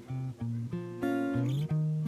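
Acoustic guitar playing a melody of plucked notes, with a slide up in pitch about a second and a half in.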